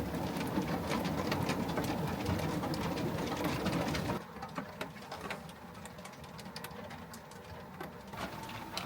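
Hail or snow pellets ticking irregularly on the van's roof and body, heard from inside. The sound drops suddenly to a quieter level about four seconds in, the scattered ticks continuing.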